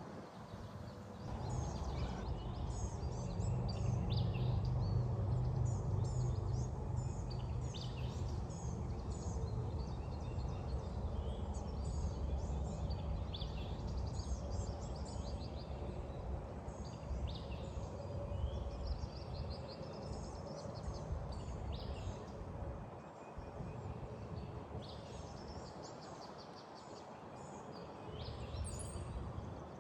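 Wind buffeting the microphone in gusts, the loudest sound, easing off near the end, while small birds chirp and sing repeatedly throughout.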